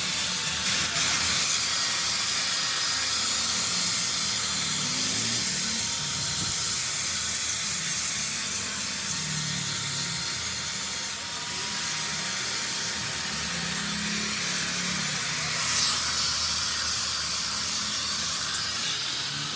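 A machine running steadily with a loud, even hiss and a faint steady whine.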